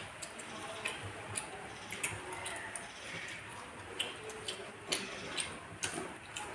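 Eating sounds: chewing and mouth smacks, heard as irregular soft clicks and wet squishes.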